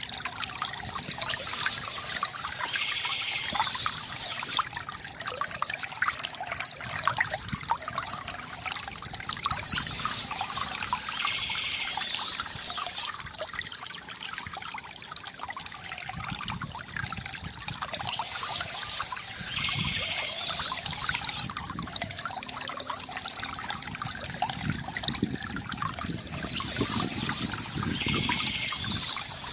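Stream water trickling and splashing steadily. A high-pitched passage of bird song comes back four times, about every eight to nine seconds, each lasting about three seconds.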